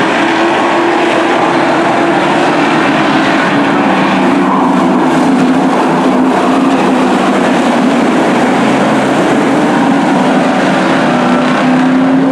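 A field of race trucks running together on a short oval track, several engine notes overlapping at a fairly steady pitch.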